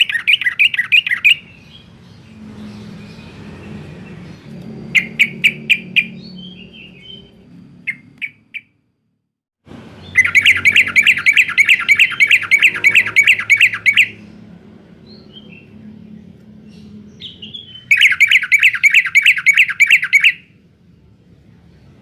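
Yellow-vented bulbul singing in fast rattling trills of evenly repeated notes, in several bursts. The longest runs about four seconds and another comes near the end. This is the 'garuda'-style trill that keepers play to set other bulbuls singing.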